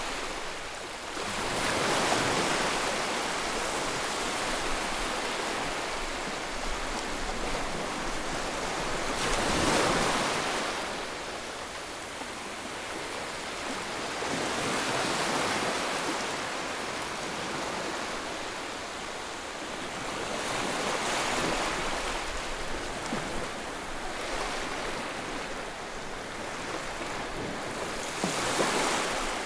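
Ocean surf: waves breaking and washing in one after another every five to eight seconds, with a steady hiss of water between them.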